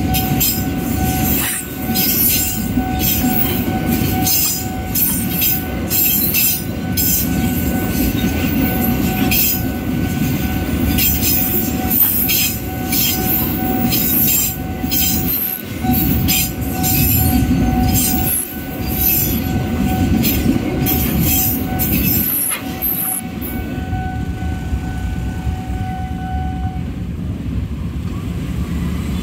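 Container freight train running past: a steady heavy rumble with many sharp wheel clacks, and a steady high ringing tone over it. The clacking stops about 23 seconds in as the last wagon goes by, and the tone cuts off a few seconds later.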